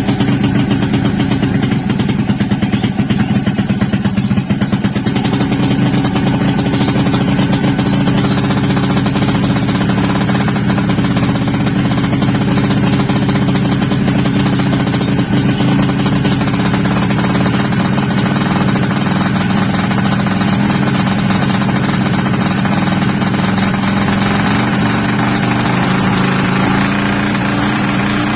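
Yamaha Jupiter underbone motorcycle with a 130cc engine running steadily at low revs through its exhaust, the revs starting to climb near the end.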